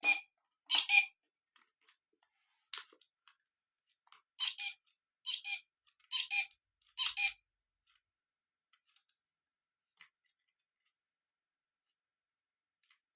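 A run of about seven short, sharp clicks spread over the first seven seconds as the bird clock is handled, then quiet.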